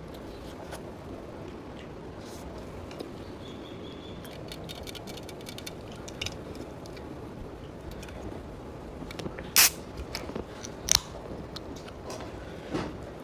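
Someone eating instant ramen: quiet chewing and mouth noises with scattered small clicks, then two sharp, louder knocks in the second half, over a steady low background rumble.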